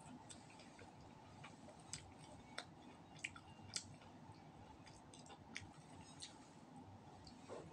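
Faint eating sounds: roast duck being chewed, with a dozen or so small, sharp mouth clicks scattered irregularly.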